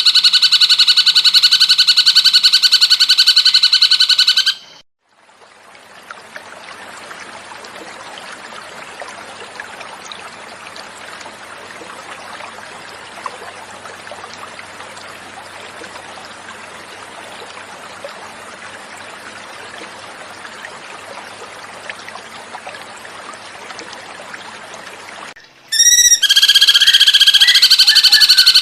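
Cucak cungkok bird song: a loud, rapid trill that cuts off after about four and a half seconds. Then about twenty seconds of gently flowing water, an even hiss. Near the end the bird starts again with a few rising chirps and the same rapid trill.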